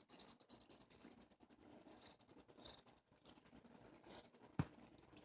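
Near silence with faint rustling and ticking of grass-stem lashing being handled, and one sharp click about four and a half seconds in.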